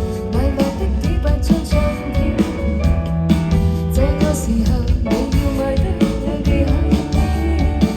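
Live indie pop band playing: sung vocal over guitar, bass and drum kit with a steady beat.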